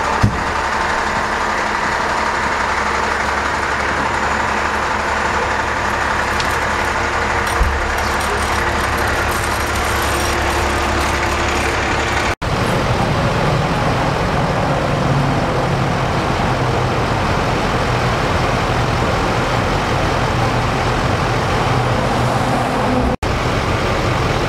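Steady running of fire-truck diesel engines at a fire scene, a continuous low drone under a wash of street noise. The drone changes abruptly about halfway through.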